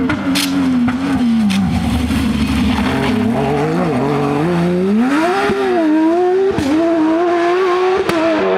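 Porsche 911 rally car's flat-six engine at full song: the revs fall away as the car slows for about the first four seconds, then climb sharply as it accelerates hard, with a brief dip in pitch at a gear change.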